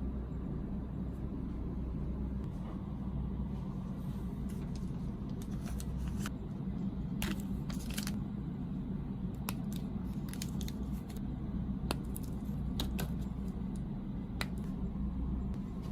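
Snack packaging being handled: scattered sharp clicks and crinkles over a steady low hum.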